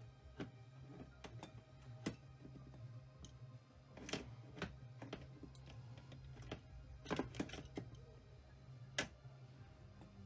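Scattered, irregular light clicks and taps over a low steady hum.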